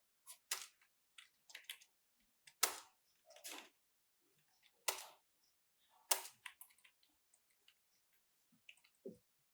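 Irregular sharp clicks and small knocks of hard objects being handled, with dead silence between them; three stand out as the loudest, and a duller thud comes near the end.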